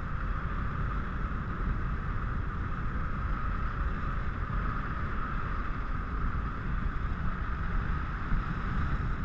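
Wind buffeting an action camera's microphone while riding a parasail high above the sea: an uneven, gusty rumble with a steady hiss above it.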